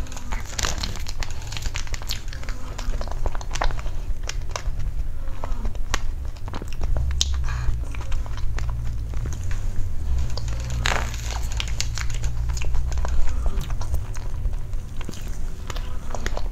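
Close-miked eating of a soft cream dessert: many small wet chewing and mouth clicks, with a metal spoon scooping from the bowl, over a steady low hum.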